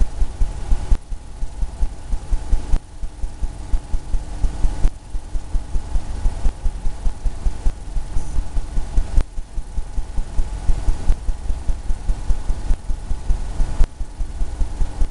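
Rapid, rhythmic low thumps of a brush dabbing on a stretched canvas, over a faint steady hum.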